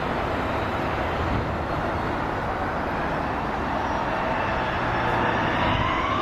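Jet engines of an arriving Airbus A330-343 (Rolls-Royce Trent 700s): a steady roar with an engine whine rising in pitch toward the end.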